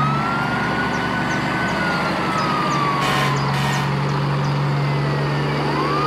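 Fire engine siren wailing: it rises to a high pitch, holds, then slides slowly down over several seconds and starts to rise again near the end, over a steady low engine hum.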